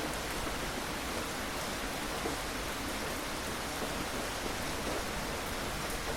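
Steady rain falling, an even hiss of many drops with no single drop or thunderclap standing out.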